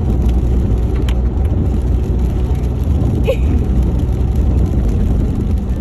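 Steady low rumble of a road vehicle being driven, engine and tyre noise with no clear change in speed.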